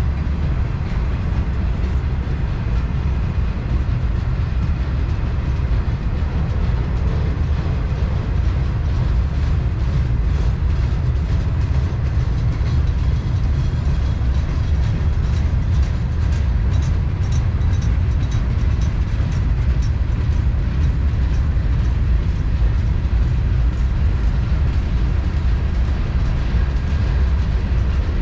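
Freight cars of a CSX manifest train rolling past with a steady low rumble. Through the middle come runs of quick wheel clicks over rail joints.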